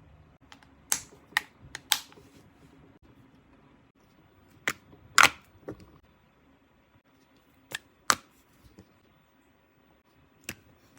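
Scattered sharp clicks and knocks, about ten in all, coming in small clusters with quiet between them; the loudest falls about five seconds in.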